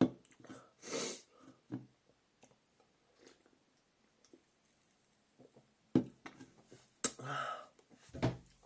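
A person sipping an energy drink from a can, with breathy sounds from the mouth and nose and a few short knocks.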